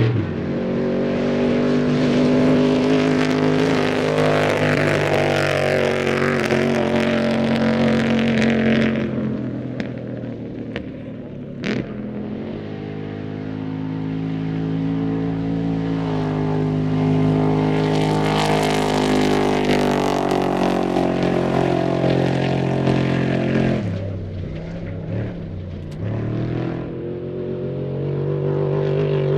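Trophy truck engines at race speed on a desert course, running hard with the pitch rising and falling as they rev and shift. The sound swells loud, eases off in the middle with a single sharp click, builds again, and then wavers before climbing once more near the end.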